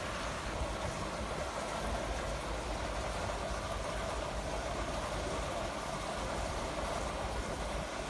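Steady low engine rumble with a constant droning hum, unchanging throughout.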